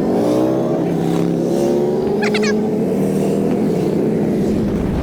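Harley-Davidson motorcycle engine slowing, its pitch falling steadily for about three seconds as the rider rolls off the throttle, then running evenly. A brief high chirp sounds a little after two seconds in.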